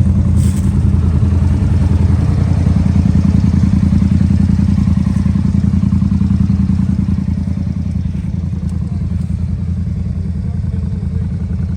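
Off-road vehicle engine running steadily with a dense low drone, easing off slightly a little past halfway.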